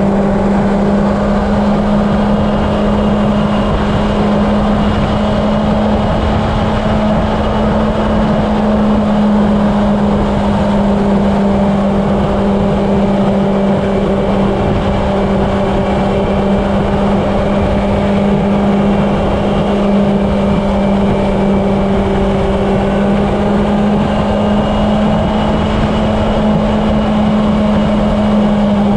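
Honda CB750's air-cooled inline-four engine holding a steady highway cruise, a constant drone with wind rushing over the microphone.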